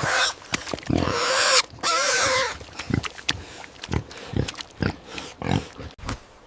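Pig squealing loudly for about a second and a half, then a string of short grunts, roughly two a second.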